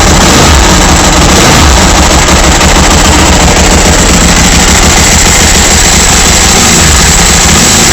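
Ducati 1098S's L-twin engine running steadily through its exhaust muffler, very loud and close up. It is heard through a smartphone microphone.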